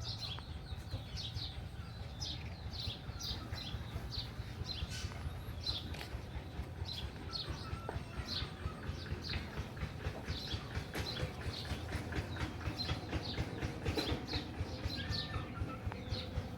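Small birds chirping over and over in short, high, falling peeps, over a steady low rumble.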